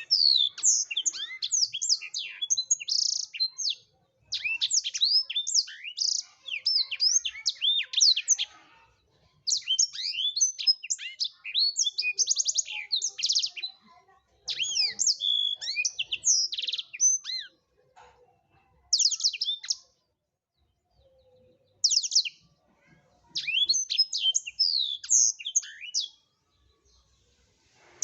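Black-throated canary (blackthroat) in full song: rapid, high twittering phrases of fast chirps and trills, each lasting a few seconds, broken by short pauses.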